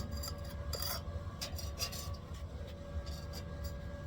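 Stick-welding electrode scratched and tapped against a steel plate to strike an arc, giving short irregular scratchy crackles that do not settle into a steady arc, over a steady low hum.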